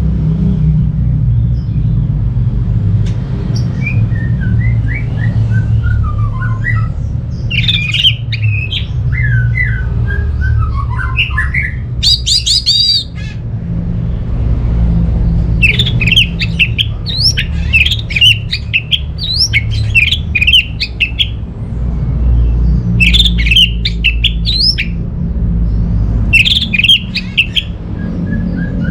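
Orange-headed thrush singing a varied song. It gives falling runs of whistled notes, then clusters of quick high chirps and trills, over a steady low rumble.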